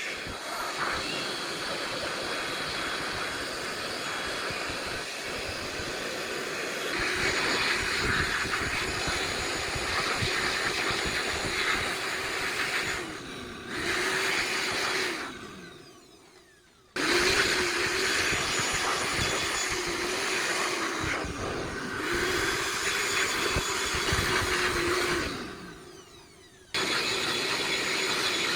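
Electric power tool motor running with a rough, noisy whir. Twice it is switched off and winds down, falling in pitch, then starts again abruptly.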